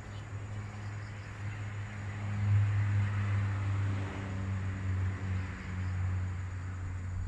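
An engine running steadily with a low hum, growing louder for a couple of seconds near the middle.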